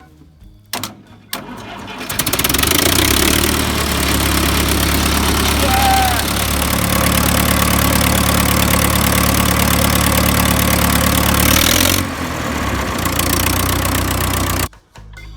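Old Ford tractor engine starting: a couple of clicks, then it catches about two seconds in and runs loud and steady. It drops a little about twelve seconds in and cuts off suddenly near the end.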